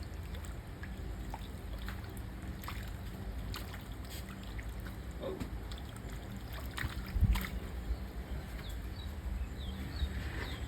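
Water sloshing and trickling around a small boat, over a steady low hum, with a louder knock about seven seconds in.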